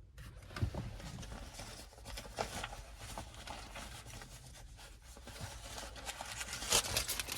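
Small birds chirping in short, irregular bursts, busier near the end, over a steady low background rumble.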